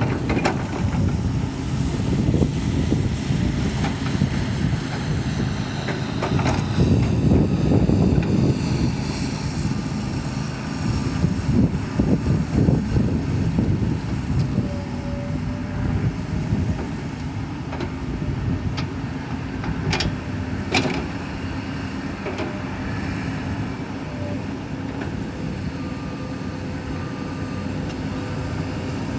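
Excavator's diesel engine running and working, its rumble rising and falling with the load, loudest in the first half. Two sharp clanks come about two-thirds of the way through.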